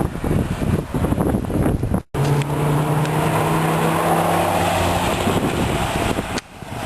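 A car's engine running hard past the camera on a race track, with wind buffeting the microphone. The sound cuts out briefly about two seconds in. After that a steady engine note holds for a few seconds, then drops away near the end.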